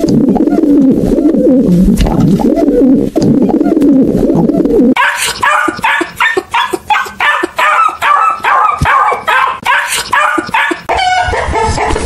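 Pigeons cooing for about five seconds, then a dog barking in quick repeated barks, about two to three a second. A chicken clucks near the end.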